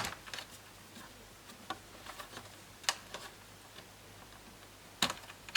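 Scattered small clicks and taps of a laptop's plastic parts and cables being handled as the Wi-Fi antenna wires are pulled out of their routing, with a few sharper ticks about two, three and five seconds in.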